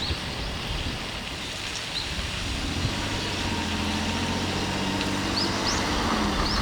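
A motor vehicle's engine comes in about two and a half seconds in and runs as a steady low hum over a constant noisy background of wind and rain. Several short, high chirps are heard, the last few near the end.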